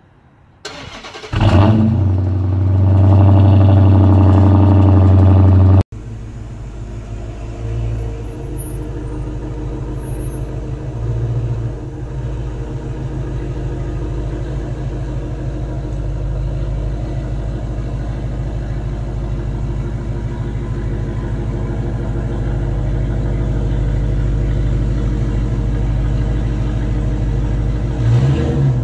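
A car engine comes in about a second in and holds a loud steady high rev for several seconds. It cuts off abruptly, and a car engine then runs with a steady low rumble that slowly grows louder.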